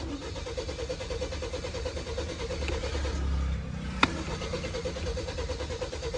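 Car engine being cranked by its starter motor but not starting: a fast rhythmic churning for about three seconds, a brief pause with a sharp click about four seconds in, then cranking again. A hard-starting or non-starting engine.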